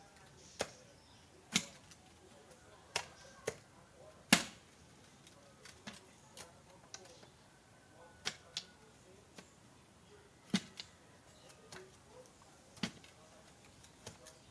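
A hand digging tool striking into the soil to dig post holes: sharp, irregular strikes about one a second, the loudest about four seconds in.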